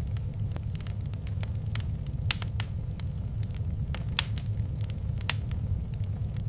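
Wood fire crackling in a fireplace: irregular sharp pops and snaps over a steady low rumble, with three louder pops about two, four and five seconds in.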